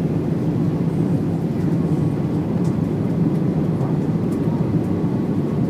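Steady low rumble of a passenger jet's engines and airframe, heard from inside the cabin after touchdown.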